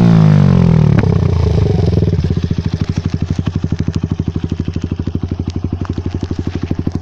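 Lexmoto Adrenaline's single-cylinder engine through a Toro exhaust, revs dropping off over the first two seconds and settling into a steady, pulsing idle. There is a faint pop from the exhaust about a second in.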